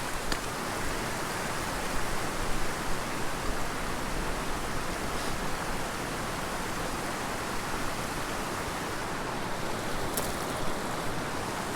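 Small mountain creek running: a steady rush of flowing water, with a couple of faint ticks.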